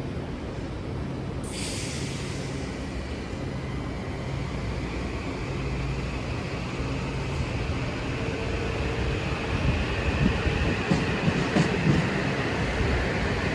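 Passenger train moving through the station: a steady low drone with a sudden burst of hiss about one and a half seconds in, then a high wheel whine building while the sound grows louder, with wheel clacks over rail joints in the last few seconds.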